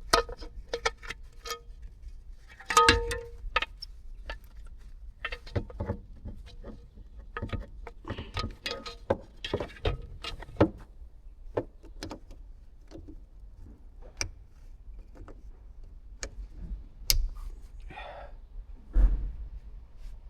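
Irregular clicks, knocks and metallic clinks of hand tools and metal parts being handled, as the fuel pump is refitted to the tank.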